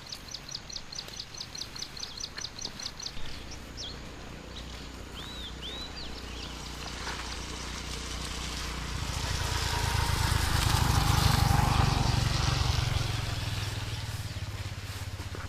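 A bird calls in a fast run of repeated high chirps for about three seconds, with a few more chirps a little later. Then a vehicle engine draws near, is loudest about two thirds of the way through, and fades as it passes.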